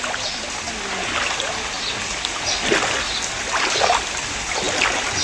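Heavy rain falling, with water splashing and running, and short louder splashes scattered through it.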